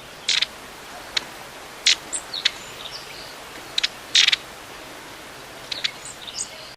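A wild bird giving short, sharp calls at irregular intervals, some in quick pairs, mixed with a few thin, high notes, over a steady background hiss.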